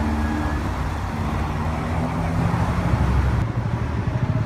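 Car engine running steadily at low revs, with street traffic around it.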